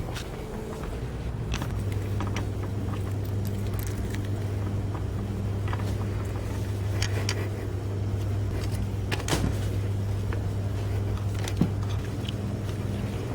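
Car driving along, heard from inside the cabin: a steady low hum with scattered small clicks and rattles, and one sharp tick near the end.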